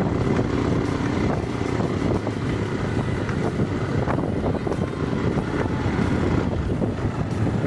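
Steady rumbling vehicle noise mixed with wind buffeting the microphone, as heard while riding.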